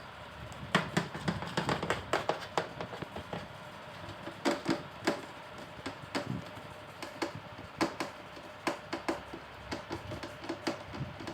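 Irregular light clicks and taps, several a second in clusters with short pauses between.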